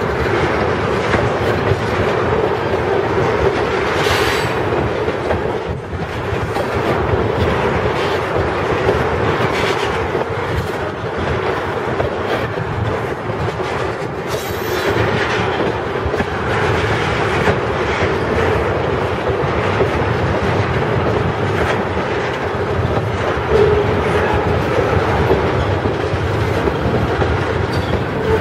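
Railroad tank cars of a freight train rolling past close by: a steady rumble of steel wheels on rail, with wheels clacking over rail joints now and then and a steady tone underneath.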